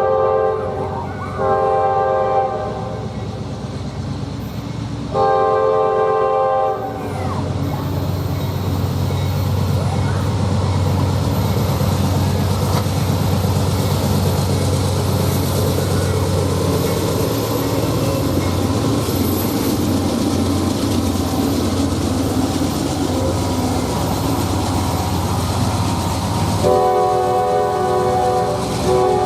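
Locomotive air horn sounding several long blasts, then a train rolling past with a steady low engine drone and broad rumble of the cars, and the horn blowing again near the end.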